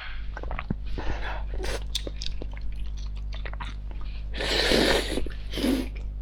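Close-miked eating sounds: chewing with many small clicks and smacks while working at a marrow bone, with a louder rushing noise about four and a half seconds in and a shorter one a second later.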